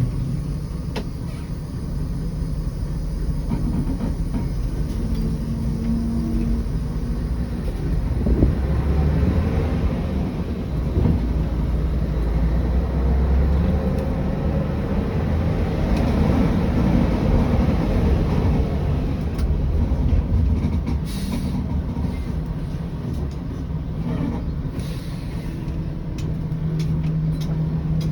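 Scania 113 bus driving, its diesel engine droning low under road and body noise. The engine note shifts a few times as it changes speed.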